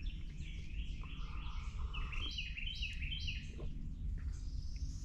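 Wild birds calling, with a run of four or five quick repeated chirps about two seconds in and scattered fainter calls, over a low steady rumble.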